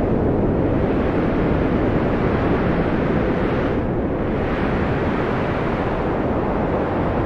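Wind blowing steadily as a deep, rushing noise; its higher hiss dips briefly about four seconds in, then swells again.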